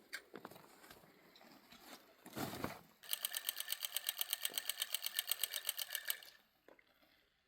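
Rapid, even mechanical rattling, about eleven strokes a second, which starts about three seconds in and stops a little after six seconds. A short scraping noise comes just before it.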